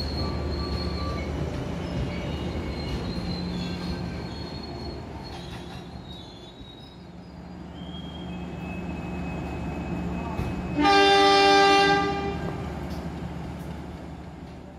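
Passenger coaches rolling slowly past with a low rumble and thin wheel squeals, fading away. About eleven seconds in, a diesel locomotive sounds its horn once, a loud chord lasting about a second.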